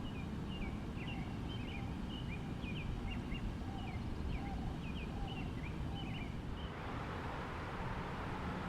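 A bird chirping repeatedly, about a dozen short, quick chirps, over a steady low rumble. The chirps stop about two-thirds of the way through, and a hiss comes up.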